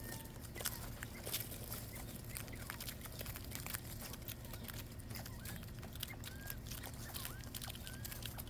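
Quail pecking and scuffling for bugs, making many short clicks, with several brief soft chirps in the second half.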